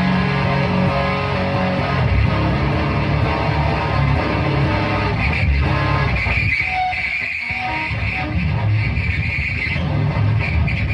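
Heavy, distorted electric guitar playing through a Dirge Slowly Melting noise pedal and a Barton High Voltage Custom 200 amplifier into an Ampeg cabinet. About six seconds in, the low end drops away for a couple of seconds, leaving a held higher tone, before the heavy low notes return.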